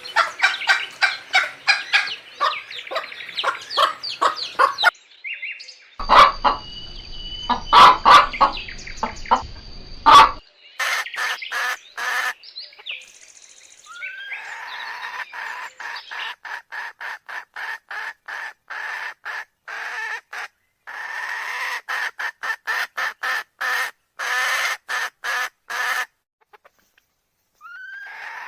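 Hens clucking in several separate recordings: runs of short, repeated clucks, fastest and most regular in the second half.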